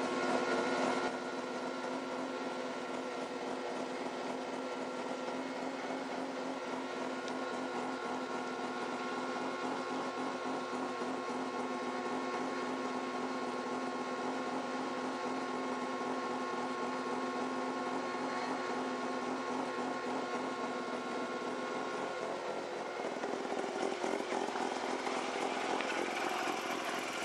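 Mazda RX7 race car's 13B rotary engine running steadily at idle, with a constant whine over a buzzy drone. About 22 seconds in the whine drops away and the running sound changes.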